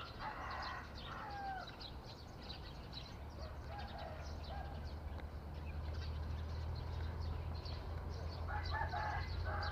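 Birds calling outdoors: faint high chirping throughout, with louder calls about half a second in and again near the end, over a low steady hum.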